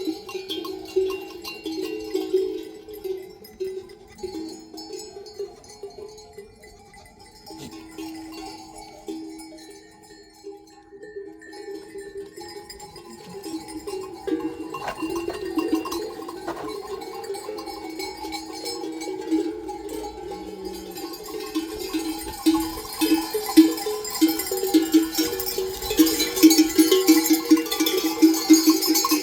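Bells worn by a flock of sheep and goats clanking irregularly as the animals move. The bells thin out and quieten for a few seconds early on, then grow louder and busier toward the end.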